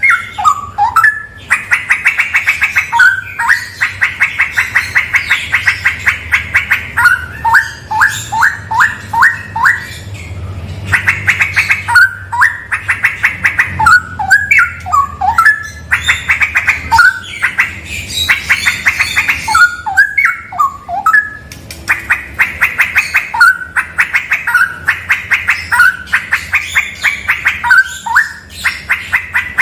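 Straw-headed bulbul (cucak rawa) singing loudly and almost without pause. Its song is made of fast runs of rapidly repeated notes and quick sliding phrases, with short breaks about ten seconds in and again about two-thirds of the way through.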